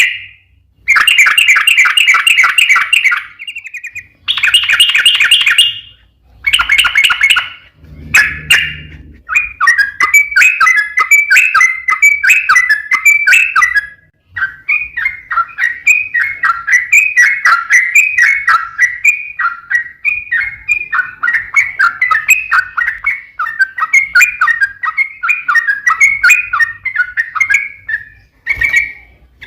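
Yellow-vented bulbul (trucukan) song: first a few short bursts of very fast, buzzy trilling, then from about nine seconds in a long unbroken run of quick chattering notes.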